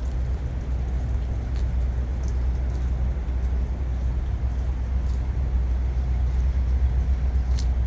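Semi truck's diesel engine running at a steady idle, a continuous low rumble, with a few faint clicks.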